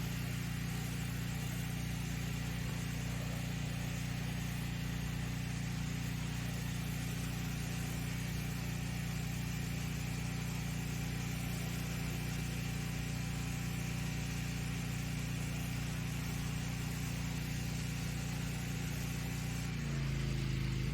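Pressure washer engine running steadily under the hiss of the wand's water spray during a rinse. Near the end the engine note shifts.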